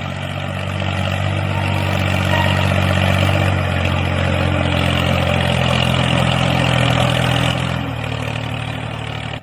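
Tractor engine running steadily, its level rising a little through the middle and easing back near the end.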